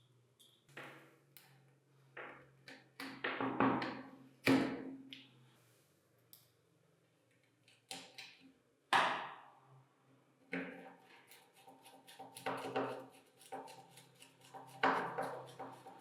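Irregular taps, knocks and clinks of metal parts being handled and fitted together by hand, some strikes ringing briefly.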